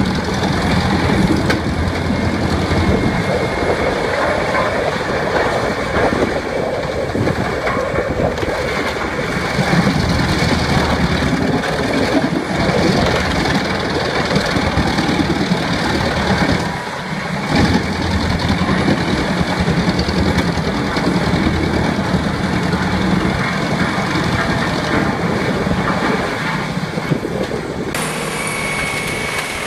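Engine-driven wood chipper running hard: a steady heavy engine note under dense rattling noise, with a brief dip about two-thirds of the way through and an abrupt change near the end.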